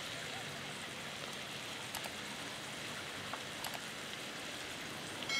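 Chicken cutlets sizzling steadily in a hot metal tray over a wood fire, with a few sharp crackles.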